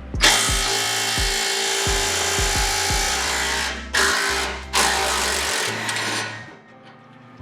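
Cordless impact wrench running in three bursts, spinning the nuts off the exhaust clamps: a long run of about three and a half seconds, then two shorter ones.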